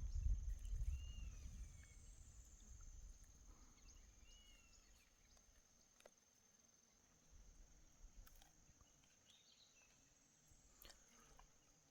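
Faint outdoor ambience. A steady high-pitched tone like insects runs throughout, with two short chirps about one and four and a half seconds in, a few faint clicks, and a low rumble that fades out over the first two seconds.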